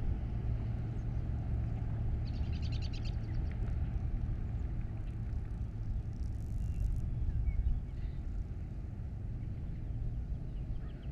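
Outdoor background noise with a steady low rumble. A small bird gives one short trill of rapid repeated high notes about two seconds in, with a few faint chirps later.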